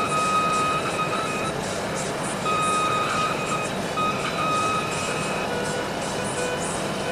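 Steady engine noise with a high, steady-pitched tone that sounds in on-and-off stretches of about a second, dropping out for about a second near the start.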